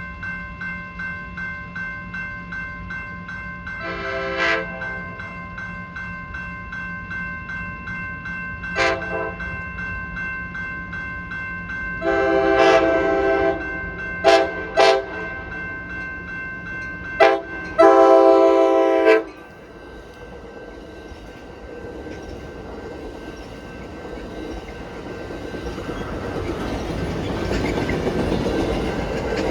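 A locomotive air horn sounds a string of blasts of varying length, including a long blast, two quick short toots and a final long blast, over a bell ringing in a steady rhythm. About twenty seconds in the bell stops, and the rumble and wheel clatter of the passing train grow louder.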